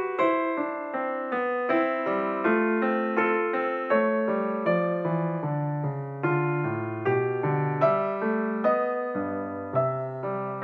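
Background piano music: a slow melody of struck notes, two or three a second, over lower sustained notes.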